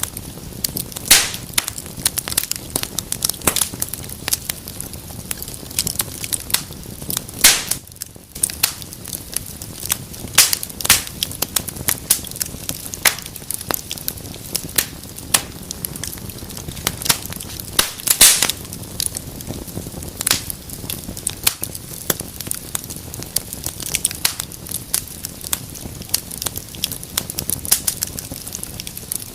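Wood fire burning in a fireplace, crackling steadily over a low hiss, with sharp irregular pops; the loudest pops come about a second in, at about seven and a half seconds, and at about eighteen seconds.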